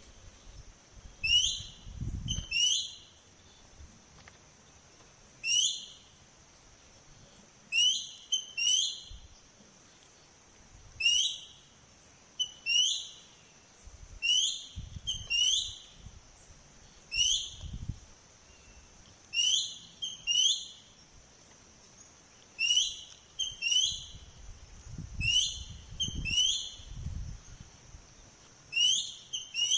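A bird calling over and over: short, high, sweeping whistled notes, often in quick pairs, every second or two, over a steady high-pitched drone.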